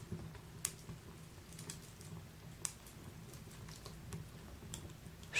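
Faint crackling of a wood fire in a fireplace, with a handful of isolated sharp pops.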